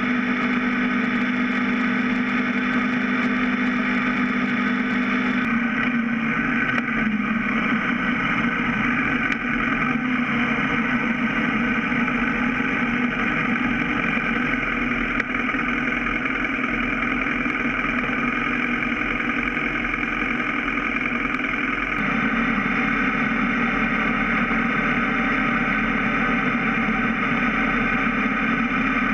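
BMW F650 GS motorcycle engine running steadily at road speed, mixed with wind and road noise; the engine note shifts slightly about five seconds in and again about twenty-two seconds in.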